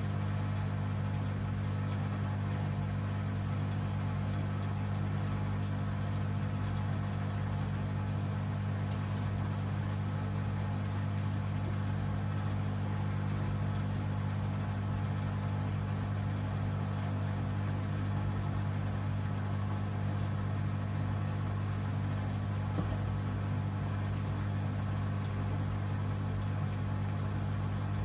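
Hoover DXOA610AHFN-80 washing machine with its drum spinning at a steady high speed: a constant, even hum with no rise or fall.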